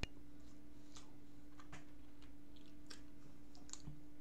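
A person chewing a McChicken sandwich: scattered short mouth clicks about once a second, with a sharp click right at the start and a steady low hum underneath.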